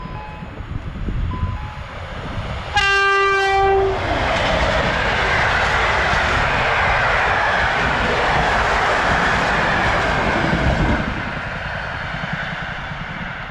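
A passenger train sounds one horn blast lasting about a second as it reaches the level crossing, then passes at speed with a loud rushing, clattering rumble of wheels on rail for about seven seconds that dies away near the end. Before the horn, the crossing's warning signal can be heard faintly, chiming in short alternating two-tone notes.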